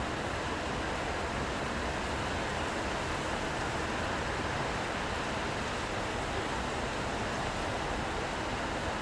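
Steady city ambience of rain and road traffic: an even hiss with no single event standing out.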